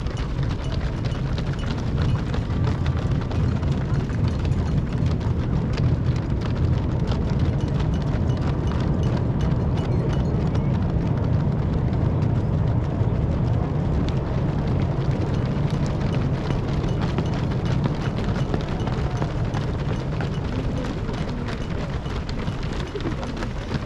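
Footsteps of a dense pack of marathon runners passing on the road: a constant patter of many feet over a steady low rumble.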